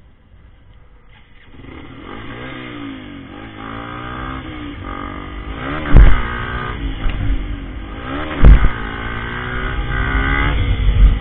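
Motorcycle engine starting up about a second and a half in, then running and revving, its pitch rising and falling again and again as the throttle opens and closes. Two loud thumps about six and eight and a half seconds in.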